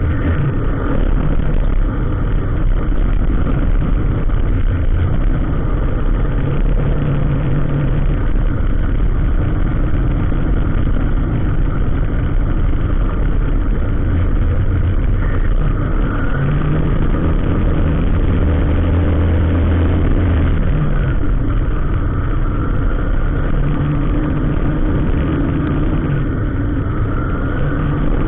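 Vehicle engines in slow, congested road traffic: a steady engine drone whose low tones come and go every few seconds as revs change.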